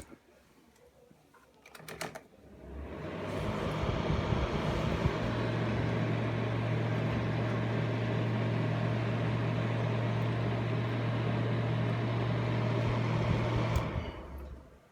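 Termozeta TZR51WB fan heater switched on after a few clicks: its fan spins up over a couple of seconds to a steady blowing with a low hum. Near the end it is switched off with a click and winds down quickly.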